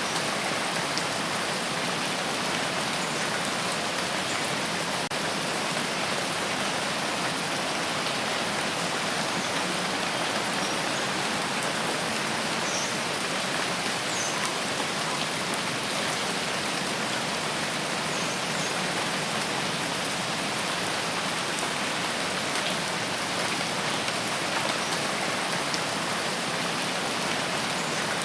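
Steady rain falling, an even, unbroken hiss with no change in strength.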